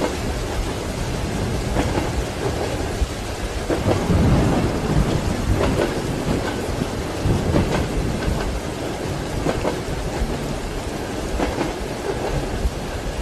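Steady rain with rumbling thunder, the thunder swelling about four seconds in and again a little later.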